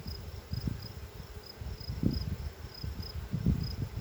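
Honeybees buzzing around an opened hive, with low, uneven rumbling beneath, and a short high chirp repeating evenly about twice a second.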